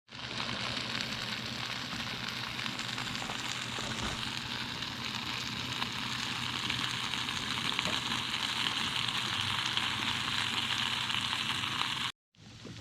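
Stuffed jalapeño poppers and onions sizzling on a grill: a steady crackling sizzle that cuts off suddenly near the end.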